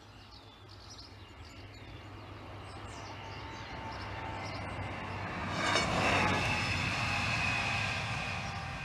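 Class 153 single-car diesel railcar approaching and passing. It grows steadily louder over the first five seconds, is loudest about six seconds in as it goes by, then begins to fade, with a steady low engine hum under it and a high steady tone carrying on as it draws away.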